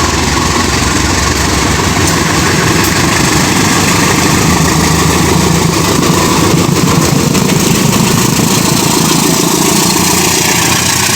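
Diesel locomotive engine running loud and steady, a heavy low engine drone under a dense rushing noise.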